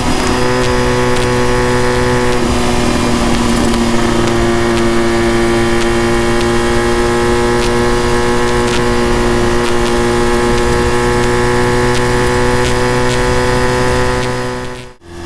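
Honda RVF400 (NC35) V4 engine, with its 360° crank, gear-driven cams and TSR slip-on silencer, running under way at steady revs, heard through a microphone inside the rear seat. The pitch steps once at the start, then holds flat, and the sound drops out briefly near the end.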